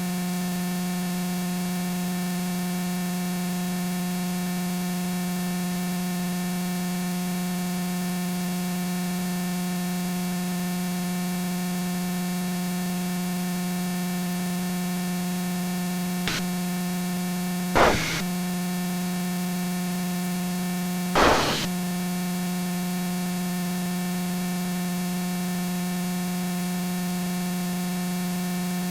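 Steady drone of the aircraft's engine and propeller heard through the intercom audio feed, with a constant hiss of static. A faint click comes about 16 seconds in, then two short crackles of static around 18 and 21 seconds in.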